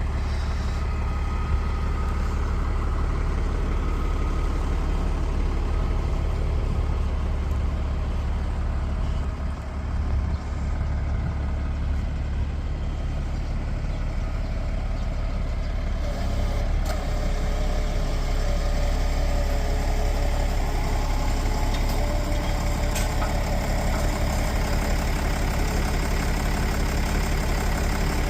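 Lamborghini tractor's diesel engine running steadily, its note changing a little about halfway through.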